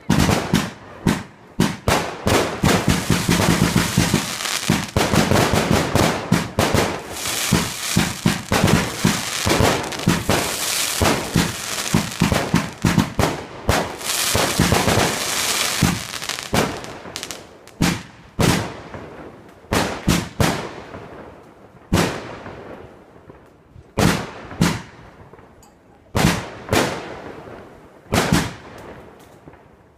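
Fireworks display: a dense barrage of rapid bangs and crackling for about the first half, thinning to single shell bursts a second or two apart, each trailing off.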